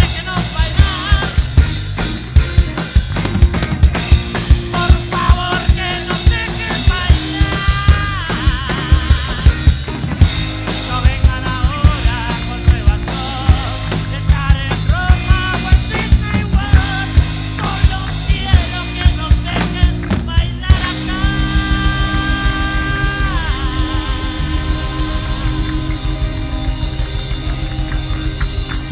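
Rock band playing: a drum kit drives a fast, hard beat under bass and a high lead line that bends and slides in pitch. About 21 seconds in, the playing shifts and a long held high note comes in over the beat.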